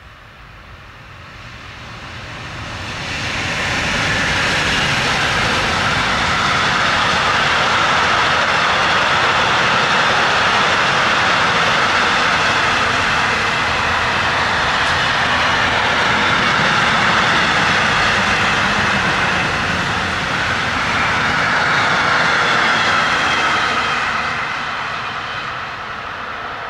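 A long electric-hauled intermodal freight train of containers and tank containers passing close by, its wheels running on the rails in a steady loud noise. The noise swells as the locomotive arrives about three seconds in and eases off near the end as the last wagons go by.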